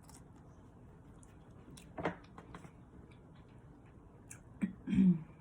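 Quiet eating sounds: scattered soft mouth and utensil clicks, a sharper click about two seconds in, and a brief low hummed voice sound near the end.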